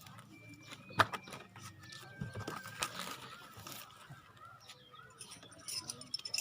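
Scattered metal clicks and taps of a spanner on the fittings of a PCP hand pump as its moisture filter is tightened, with one sharp clack about a second in.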